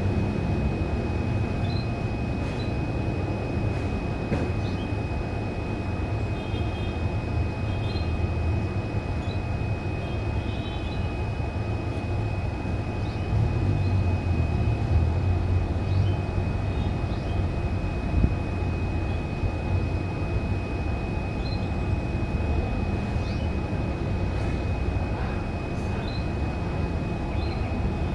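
Steady low rumble with a constant thin high-pitched whine, and a few faint, scattered bird chirps.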